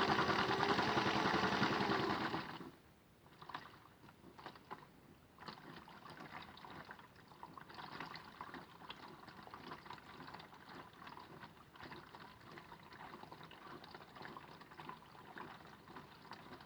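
Small electric motor of a modified Miele toy washing machine running with a wavering hum, cutting off suddenly a little under three seconds in. After it stops, water sloshes and trickles quietly and irregularly inside the machine.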